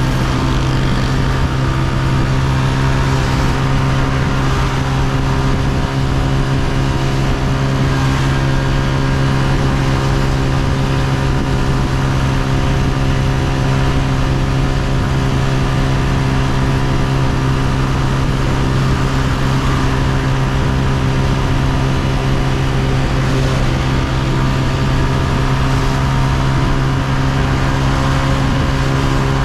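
Honda CG125's air-cooled single-cylinder four-stroke engine running steadily, its note holding one pitch throughout.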